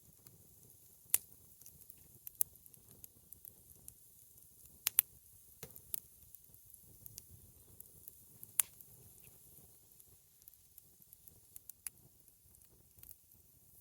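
Campfire crackling: burning wood giving off irregular sharp pops, a few much louder than the rest, over a faint low rumble.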